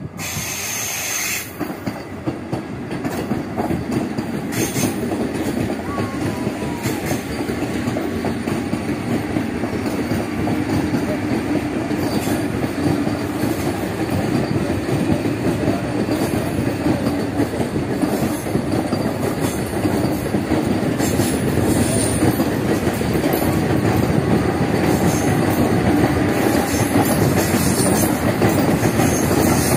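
Vande Bharat Express electric multiple-unit trainset rolling past, a steady rushing of wheels on rails with clacks over the rail joints, growing gradually louder as the coaches go by.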